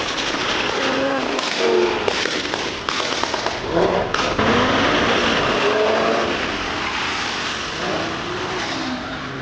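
Audi cars' engines running and revving under a loud rushing noise, with a few sharp pops.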